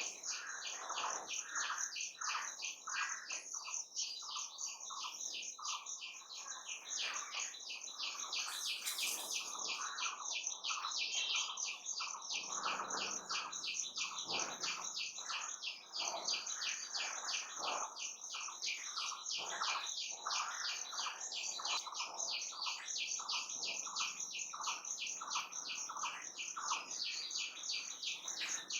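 Birds chirping and calling, over a steady, fast high-pitched pulsing of about four pulses a second.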